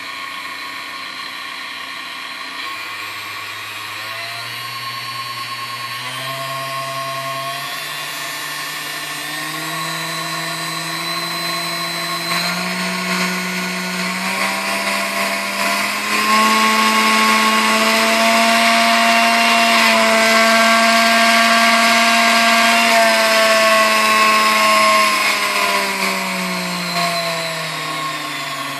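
Sunbeam Mixmaster Model 7B stand mixer's motor running, its whine stepping up in pitch through the speed settings, holding at top speed, then stepping back down near the end. It runs nice and smooth through the whole speed range.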